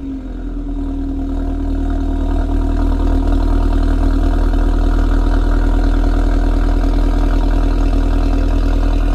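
Car exhaust with the catalytic converter removed and a Ragazzon centre pipe and rear silencer with twin tailpipes, idling steadily with a strong low rumble. It grows a little louder over the first few seconds, then holds even.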